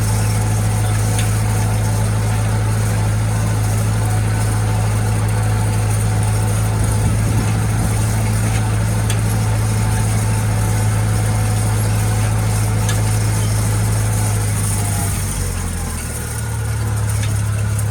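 International Harvester tractor engine running steadily. About three-quarters of the way through, its note drops and dips briefly before coming back up.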